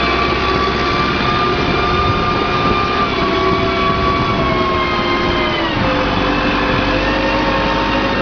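Car engine revving hard under load as it strains to drive out of deep mud. The revs hold high, then drop about six seconds in and settle lower.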